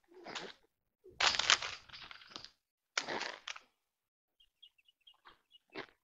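A crow's wings flapping in several loud rushes as it flies off from a wire trap, with a few faint high chirps from small birds near the end.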